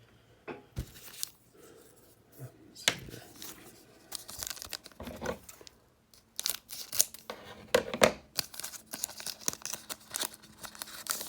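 A Panini trading card pack's wrapper being torn open and crinkled, with repeated irregular rips and rustles.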